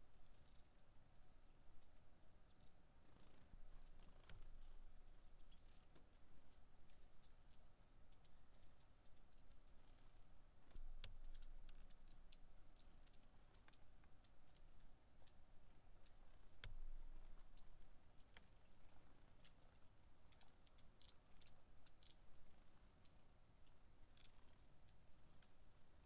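Long-tailed tits giving thin, very high-pitched calls, short and scattered, several birds calling on and off. Two faint sharp clicks partway through.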